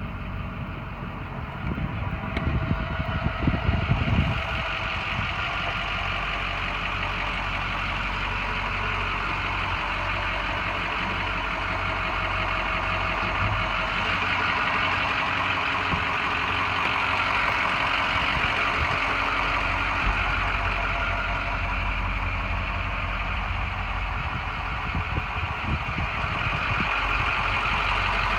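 Ford F-550 bucket truck's engine running steadily, with a louder, rougher stretch about two to four seconds in.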